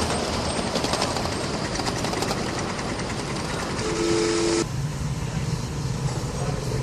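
Steam train running with a rattling, hissing noise, and a short two-note chime whistle toot about four seconds in. Right after the whistle the sound drops suddenly to a quieter low hum.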